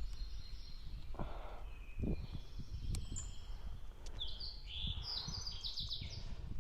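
Birds chirping and calling, with a quick run of short high stepped notes about four to six seconds in, over a low uneven rumble.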